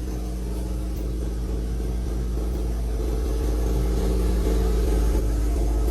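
Engine of a long-dormant old vehicle running steadily as it drives slowly out under its own power, growing gradually louder.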